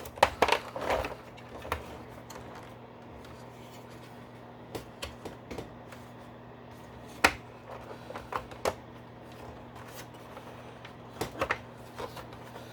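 Hard plastic parts of a GI Joe BUGG toy vehicle clicking and knocking as they are handled and pressed together at their tabs, in scattered small clusters with one sharp click about seven seconds in.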